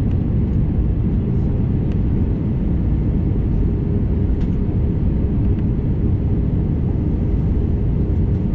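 Steady low rumble of cabin noise inside an Airbus A321neo airliner: jet engines and airflow, with a faint steady hum and a few small ticks.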